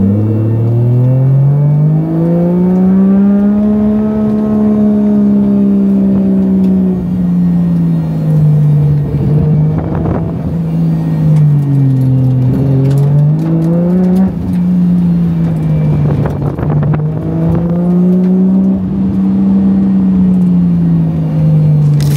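Drift car's engine heard from inside the roll-caged cabin, revving hard while the car slides through mountain-road corners, its pitch rising and falling in long sweeps. There are rougher, noisier stretches about ten and seventeen seconds in.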